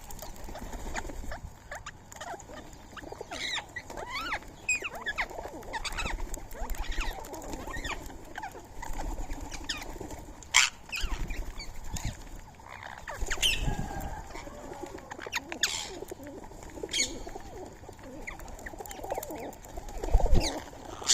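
Birds at a feeding spot: pigeons and doves cooing, with short high calls from rose-ringed parakeets scattered throughout. A flurry of low thumps comes near the end.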